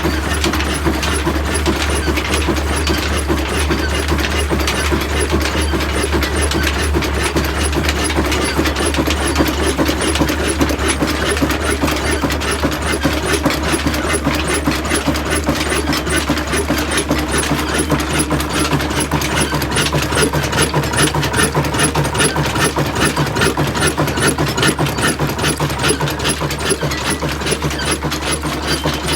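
Old desi diesel oil engine running steadily with an even, rapid beat, driving an atta chakki flour mill.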